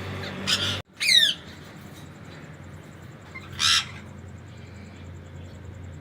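Indian ringneck parakeets squawking: three short, harsh calls, one about half a second in, a loud one at about a second that slides down in pitch, and another loud one a little past the middle, then quieter.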